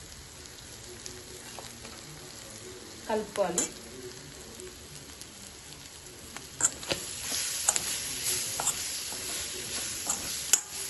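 Boti (goat tripe) masala frying in oil in a kadai, sizzling as it is stirred, with brief scrapes and knocks of the spatula against the pan. The sizzle grows louder from about halfway through.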